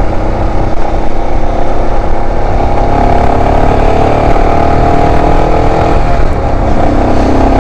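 Royal Enfield Himalayan 411's single-cylinder engine running on the move, over a dense low rumble; its note drops in pitch about six seconds in.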